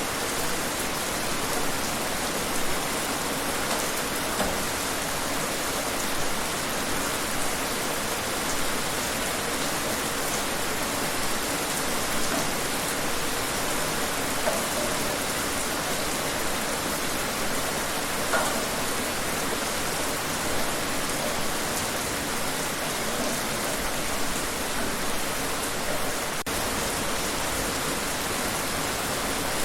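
Steady rain falling outdoors, an even hiss of drops with faint scattered patters.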